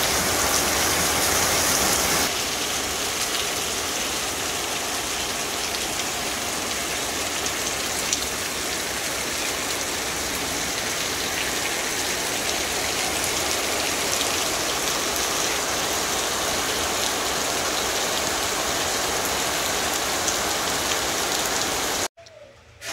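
Heavy rain falling steadily on a paved street and roofs, a dense even hiss of drops. It cuts off suddenly near the end.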